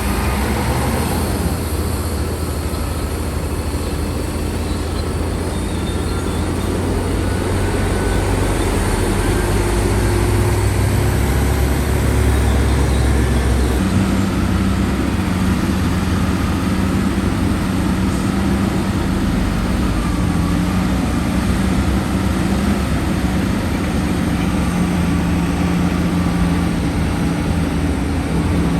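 Heavy diesel engine of earthmoving machinery running steadily under load. About halfway through, the deep rumble drops back and a steadier, higher engine hum takes over.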